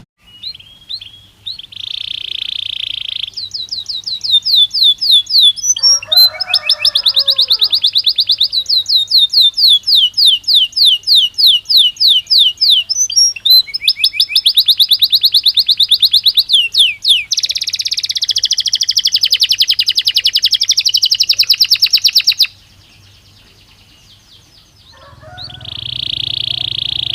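Domestic canary (Belgian canary) singing a continuous song of fast trills and rolls. Each phrase is a rapid run of identical repeated notes. The song breaks off for about two seconds near the end, then resumes.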